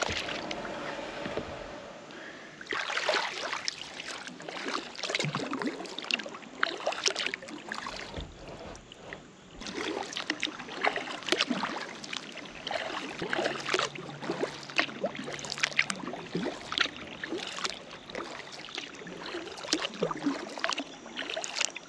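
Kayak paddling on calm river water: paddle blades dipping and splashing, with many small irregular splashes and drips.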